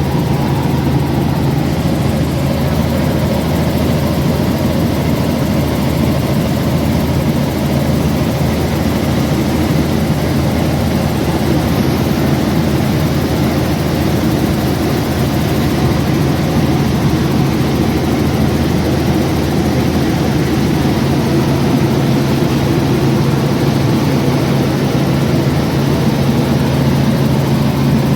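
Aircraft engine running steadily at a constant pitch.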